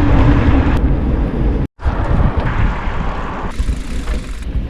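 Loud wind buffeting and rumbling on the microphone, broken by a brief total dropout just under two seconds in.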